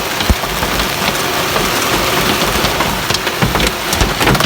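Large hailstones pelting down and hitting hard ground: a loud, dense clatter with many sharp individual strikes.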